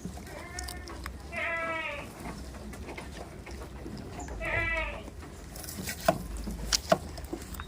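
Goat bleating: a faint bleat at the start, then two louder wavering bleats about a second and a half and four and a half seconds in. A few sharp clicks or knocks follow near the end.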